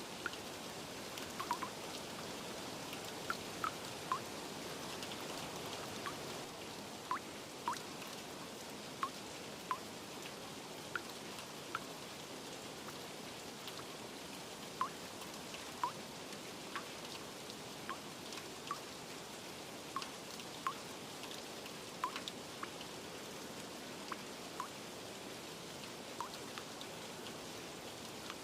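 Steady rain falling, with scattered single drops plinking close by at irregular intervals, about one a second.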